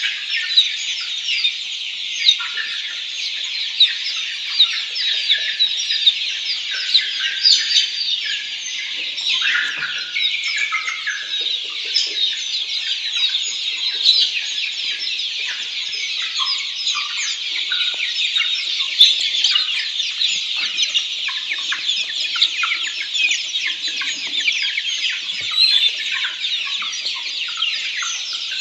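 A flock of Black Australorp chickens calling continuously: a dense chorus of high-pitched peeps and chirps, with occasional lower clucks mixed in.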